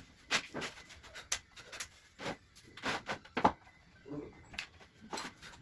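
About a dozen light, irregularly spaced knocks and taps from carpentry work, with no steady rhythm.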